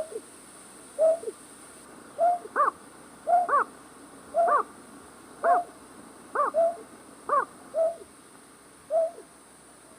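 A night bird's hooting call, played as a lure call for trapping night birds. Short hoots repeat about once a second, and several come as a quick pair with a higher second note.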